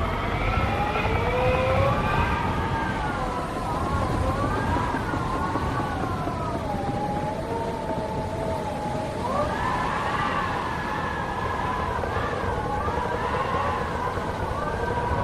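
Howling wind, in several wavering tones that slide up and down together over a steady low rumble of gusts. The pitch jumps up about nine seconds in.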